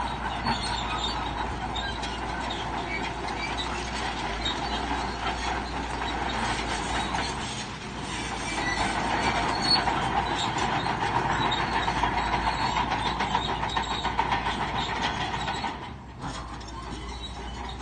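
Shantui crawler bulldozer working, its steel tracks clattering over the engine's running noise, with a brief drop in level near the end.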